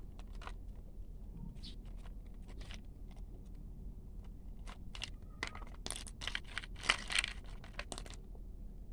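Small toy pieces and gravel being handled: scattered short scrapes, clicks and crunches, busiest from about five to eight seconds in, then stopping.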